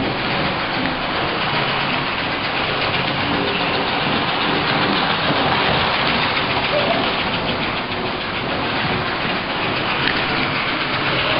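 American Flyer S-gauge toy train running fast on its metal track, a steady rattling rumble with a fine clicking texture.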